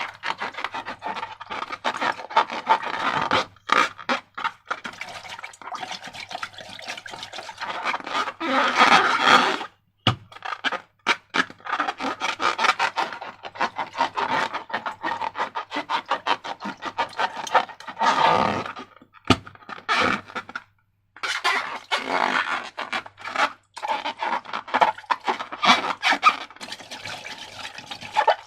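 Slime being worked and stirred, making fast sticky clicks and crackles in irregular clusters with short pauses between.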